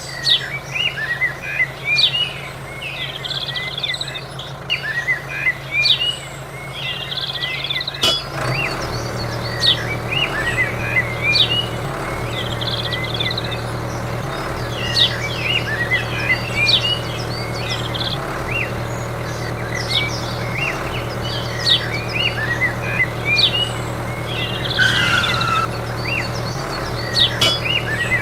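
Many birds chirping over and over, over a steady low mechanical hum. The hum grows stronger after a click about eight seconds in.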